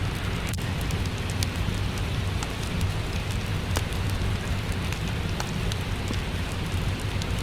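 Steady rain, with scattered sharp crackles and pops from a wood fire mixed in.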